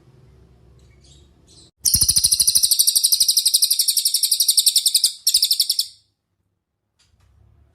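Cililin singing: a few faint high chirps, then about two seconds in a long, loud, high-pitched rapid trill of evenly repeated notes lasting over three seconds. A shorter burst of the same trill follows.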